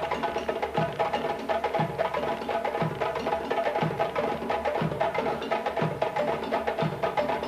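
Traditional African dance percussion: fast, dense clicking percussion over a low drum beat about once a second.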